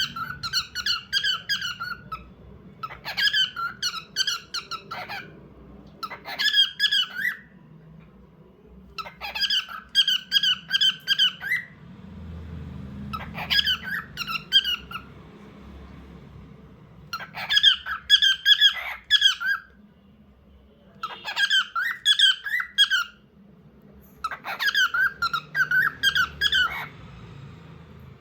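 Pet cockatiel chirping in quick, repeated runs of notes, about eight bouts of two to three seconds each with short pauses between them.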